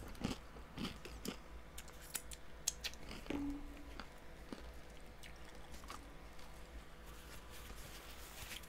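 Faint chewing of a crunchy sesame-and-almond snack, with scattered small clicks and a short low hum about three seconds in. A paper napkin wipes the mouth near the end.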